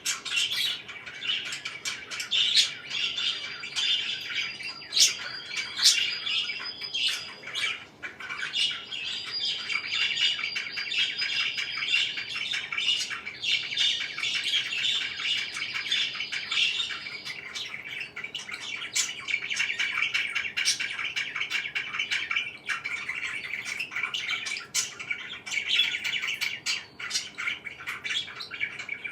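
Pet parakeets chirping and chattering without a break, with many short sharp calls mixed in.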